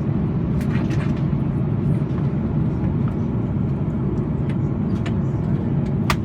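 Steady low rumble of airliner cabin noise aboard an Airbus A330-200, with a few faint clicks, the clearest near the end.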